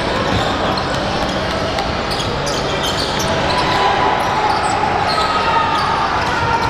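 Basketball game in a gym: a ball bouncing on the hardwood court and shoes squeaking in short, high chirps, over a steady echoing wash of players' and spectators' voices.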